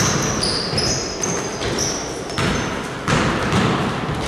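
Basketball play on a court: the ball bouncing repeatedly, mixed with many short high squeaks of sneakers on the floor.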